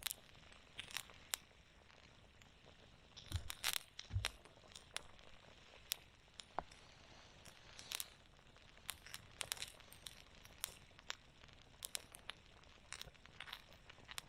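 Wood campfire crackling: irregular sharp pops and snaps, several a second, over a faint steady hiss, with a louder cluster of snaps and dull knocks about three to four seconds in.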